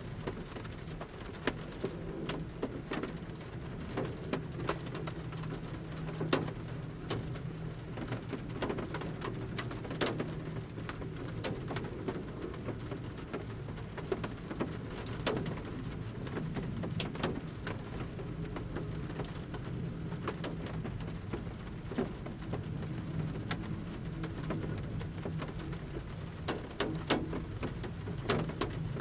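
Large raindrops from the forest canopy falling on the metal roof of a camper van at irregular intervals, each landing as a sharp tick over a steady low rain hiss, heard from inside the van.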